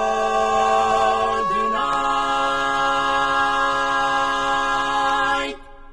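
An a cappella vocal group holds the final chord of the song. It moves to a new sustained chord about two seconds in, and the voices cut off together near the end.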